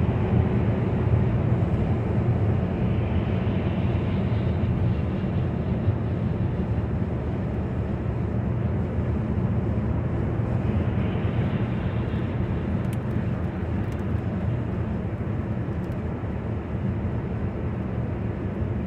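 Steady road noise inside a moving car's cabin at highway speed: a low engine and tyre drone with hiss that swells twice.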